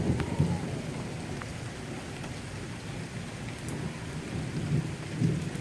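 Steady rain falling, an even hiss with a low rumble beneath it and a few faint drop ticks.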